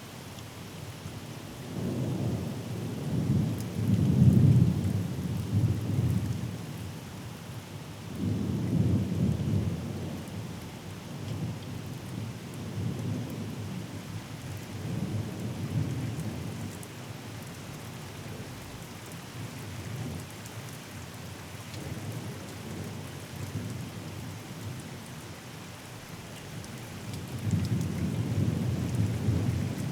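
Steady rain falling through a thunderstorm, with rolling thunder rumbling in several long waves. The loudest peal comes about four seconds in, another follows a few seconds later, and a further rumble builds near the end.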